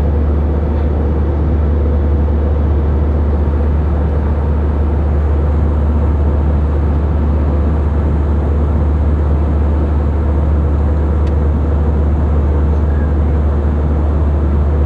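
Airliner cabin noise in flight: the steady, deep drone of the jet engines and rushing air heard inside the cabin.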